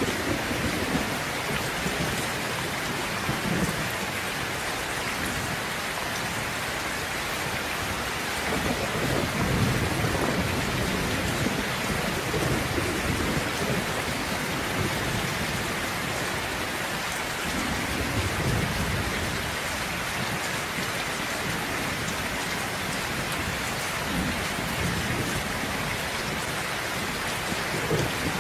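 Steady heavy rain hissing, with low rolls of distant thunder rumbling underneath, swelling most from about a third of the way in and again past the middle.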